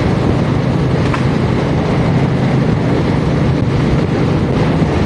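Royal Enfield Meteor 350's single-cylinder engine running steadily at cruising speed, under a constant rush of wind on the microphone.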